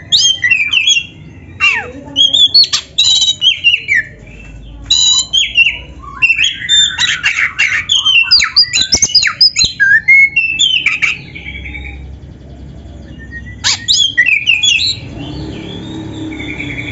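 Black-breasted Oriental magpie-robin (kacer) singing loudly in rapid, varied phrases of whistles, sweeping notes and harsh squawks, a song filled with canary-like imitations. The song breaks off about 11 seconds in, returns with a short burst a few seconds later, and then gives way to softer chirping.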